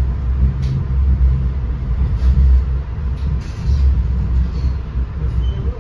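Ride noise heard inside an NJ Transit Comet II/IV passenger coach on the move: a steady, loud low rumble of the car running over the rails, with a few faint clicks and rattles.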